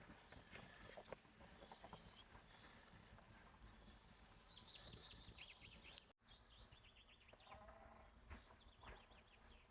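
Faint outdoor ambience with series of short, high chirping calls falling in pitch, broken by a sudden brief dropout a little past halfway.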